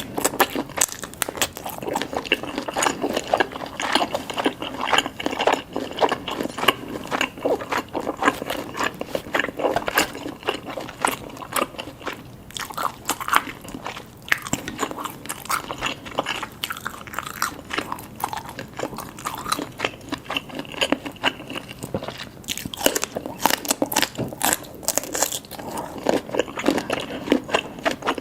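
Close-miked eating of seafood: steady chewing and biting, a dense run of short mouth clicks and smacks with no pauses longer than a moment.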